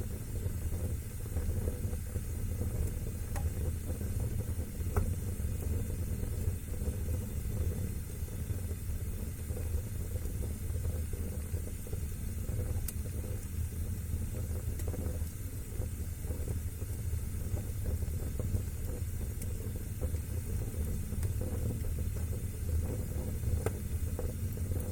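Wood fire burning in a fireplace: a steady low rush of flame, broken by a few sharp crackles spread far apart.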